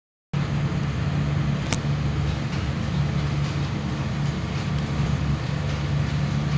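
Steady vehicle noise: a low engine hum under an even hiss, with a single sharp click about a second and a half in.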